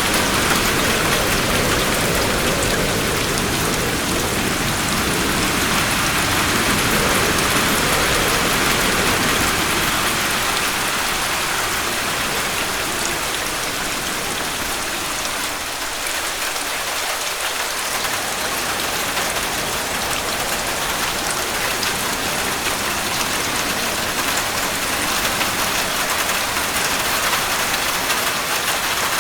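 Heavy rain falling steadily, a dense even patter and hiss, a little louder in the first ten seconds or so.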